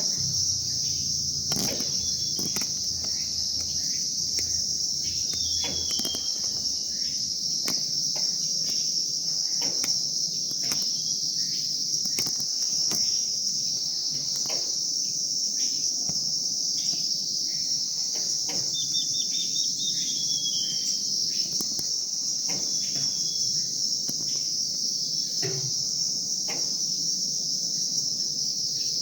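Steady, high-pitched insect drone, with a few short bird chirps and one brief run of twittering about two-thirds of the way through.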